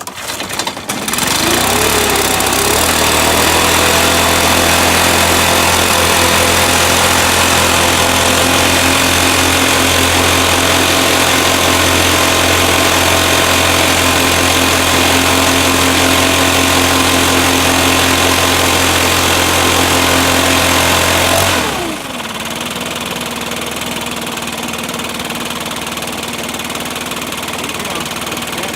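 Stihl BR600 backpack leaf blower, cold-started in freezing weather, coming up to speed and running fast with a loud rush of air. About two-thirds through, its pitch falls and it settles to a quieter, steady idle.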